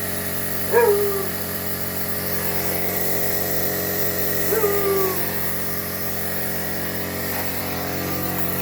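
Air compressor running steadily, pumping air into a tyre being inflated to seat its bead on the rim, the bead not yet popped. Two short sliding vocal calls, one about a second in and one near the middle.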